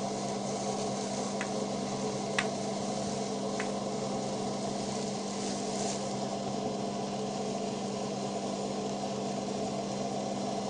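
Small 200-watt electric dough mixer running steadily while mixing flour dough, a constant motor hum. A few short clicks come in the first four seconds.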